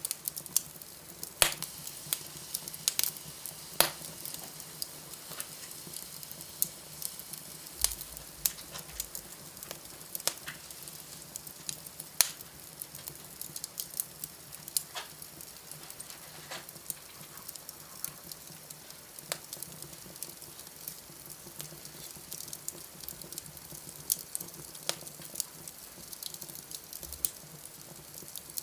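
Wood fire burning in a fireplace, crackling with frequent sharp, irregular pops over a soft steady hiss.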